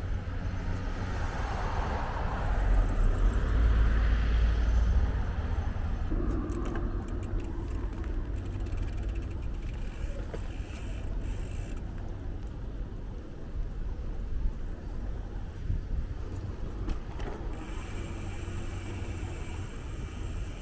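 Road traffic noise with a steady low rumble, and a motor vehicle passing close by, loudest about two to five seconds in.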